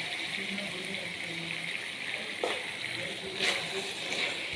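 Chilli chicken sizzling steadily in a pan on the stove, turned down to a low flame, with two light clicks partway through.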